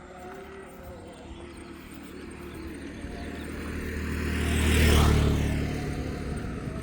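A motor vehicle approaching and passing close by, its engine and tyre noise loudest about five seconds in, then fading.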